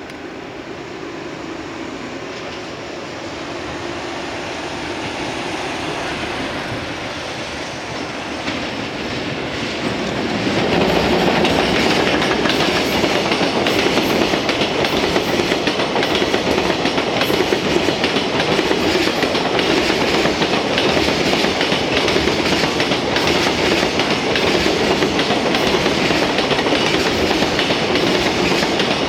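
Freight train headed by a JR Freight EF210 electric locomotive rolling past on the track. It grows louder for about ten seconds as it approaches, then settles into a loud, steady rumble with wheels clacking over the rail joints as the wagons go by.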